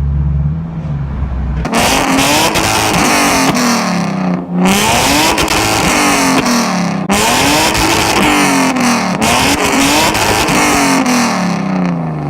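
Car engine revved hard again and again, its pitch rising and falling about four times with a loud rushing exhaust noise. Before that it runs at a steady low hum, and the revving comes in suddenly a couple of seconds in.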